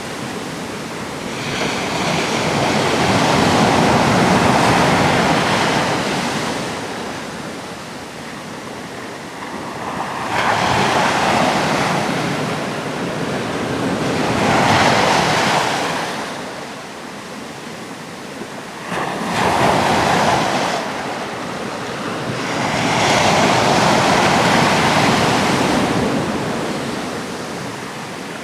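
Sea waves breaking and washing on the shore, coming in about five surges, each one swelling for a few seconds and then falling back into a lull.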